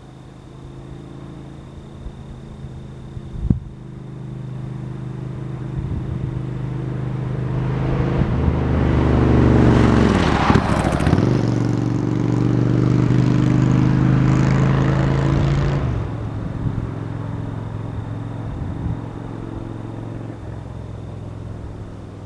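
A motor vehicle approaches and drives past close by on the road, with engine and tyre noise. Its engine pitch drops as it passes about ten seconds in, and the sound stays loud for a few seconds more before falling away. A single sharp knock comes a few seconds in.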